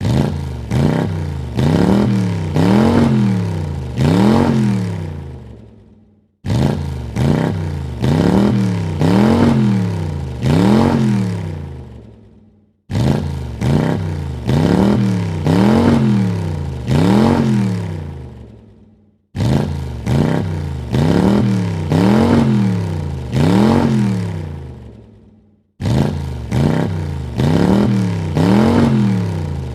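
A car engine revved in quick blips, four or five rises and falls in pitch, then fading away. The same short recording repeats about every six and a half seconds, each time starting abruptly after a brief silence.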